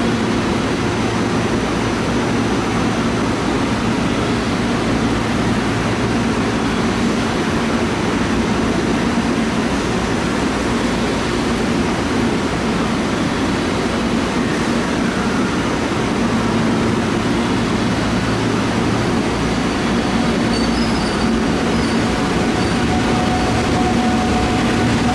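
Train at a station: a steady electric hum over a broad, even noise, with a few faint high squeals near the end.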